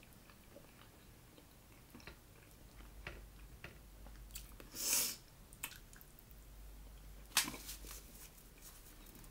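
A person biting and chewing pizza crust close to the microphone, with small mouth clicks. A louder half-second rush comes about five seconds in, and a sharp click about seven and a half seconds in.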